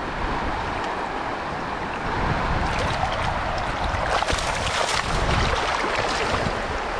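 River current rushing steadily, with a stretch of splashing in the water from about two to five seconds in.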